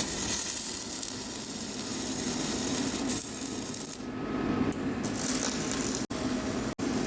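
MIG welding arc crackling steadily while a weld is run, with a short break about four seconds in.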